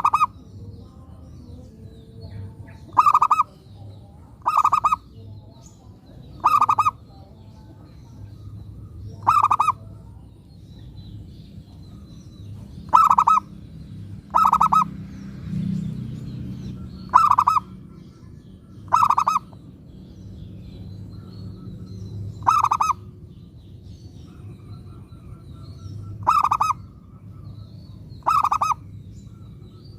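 Zebra dove (perkutut) cooing: short, rapid stuttering coos repeated about a dozen times, one every two or three seconds.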